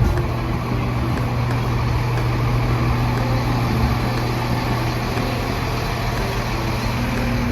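Fire truck engine running steadily, a constant low hum.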